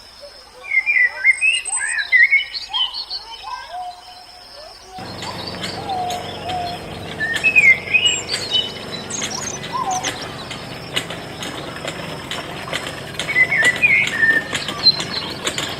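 Several birds chirping and tweeting in short rising and falling calls. About five seconds in, a steady low hum with crackling ticks starts under them.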